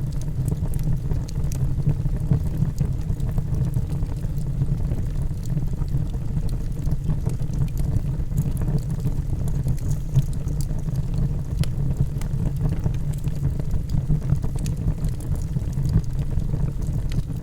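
Logs burning in a fireplace: a steady low rumble of flames with scattered sharp crackles and pops.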